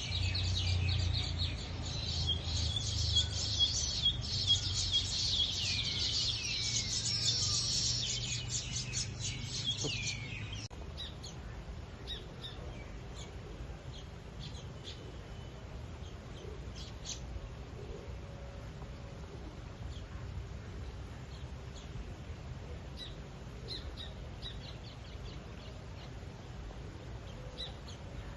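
Small birds chirping and twittering: a busy flurry of rapid high chirps for about the first ten seconds, then an abrupt change to sparser, scattered short chirps.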